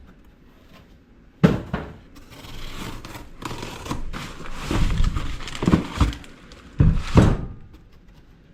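A shipping package being opened and unpacked by hand: a sharp knock about a second and a half in, then rustling and crinkling of the packaging, with several thumps as the contents are handled.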